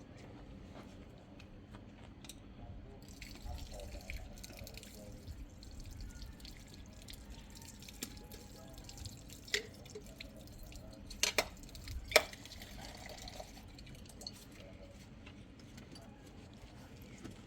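Quiet clicks and taps of small objects being handled, over a low steady hum, with a few sharper clicks about ten to twelve seconds in.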